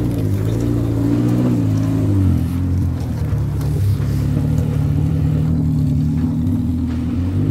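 Engine of a small off-road 4x4 working under load as it crawls through deep mud up a rutted gully. Its pitch climbs a little, dips about two seconds in, then holds steady.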